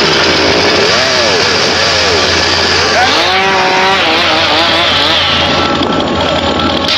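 A chainsaw engine running and being revved, its pitch rising and falling several times over a loud, steady buzz.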